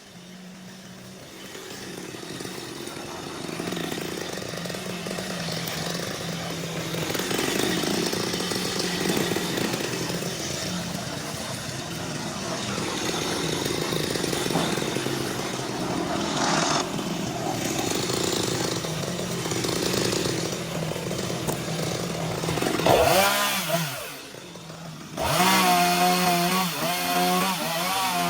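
Chainsaw running steadily under load as it cuts through wood; near the end the engine drops off briefly, then revs up again.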